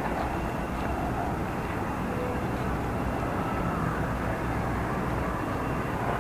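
Steady rumble of vehicle and city traffic, with most of the sound low down, and faint wavering tones in the middle range above it.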